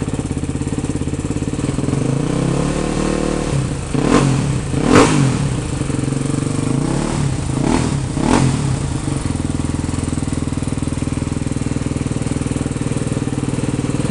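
Honda Tornado motorcycle with a 326cc single-cylinder engine, idling steadily, with four short throttle blips in two pairs around the middle, then back to idle.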